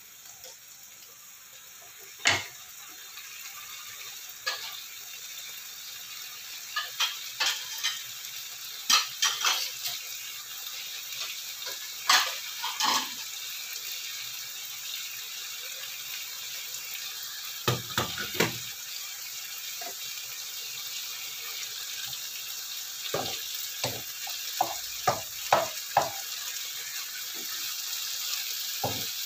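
Beef, steamed eggplant and lettuce sizzling in a wok over a gas flame while being left to sear: a steady hiss that slowly grows louder, with scattered sharp clicks and pops. Near the end a wooden spatula stirs the food, tapping and scraping against the pan.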